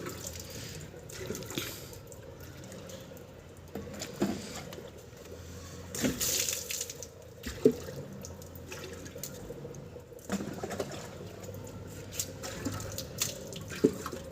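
Water pouring and splashing, with a few light knocks scattered through it.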